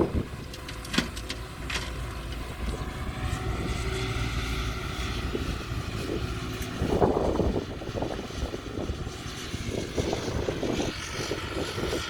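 Diesel engine of heavy earthmoving machinery running steadily, with a few sharp knocks in the first two seconds and bursts of rough clattering noise about seven seconds in and again near the end.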